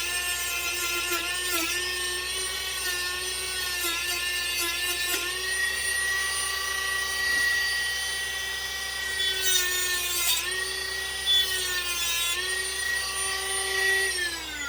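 Dremel-type high-speed rotary tool whining steadily as it cuts into a wooden dowel, its pitch sagging briefly each time the bit bites. It starts winding down at the very end as it is switched off.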